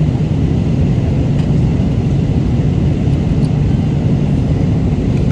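Steady low rumble of an airliner's cabin noise in flight, with a few faint small ticks over it.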